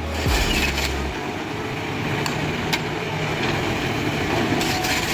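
A heavy vehicle's engine running steadily, with a low hum that drops away about a second in and a couple of sharp clicks near the middle.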